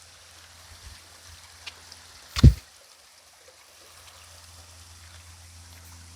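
Faint creek water trickling, with a few small ticks and one short, loud thump about two and a half seconds in.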